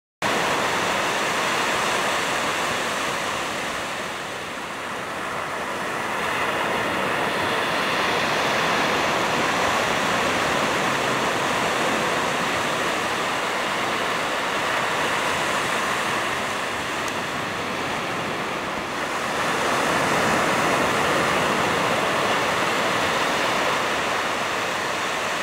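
Ocean surf washing on a beach: a steady rush of noise that eases and swells back a couple of times.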